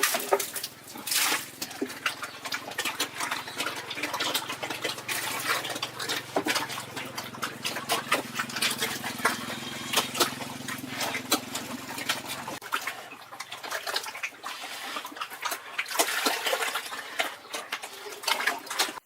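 Pigs eating wet feed: dense, irregular slurping and chomping, with a low steady hum that stops abruptly about two-thirds of the way through.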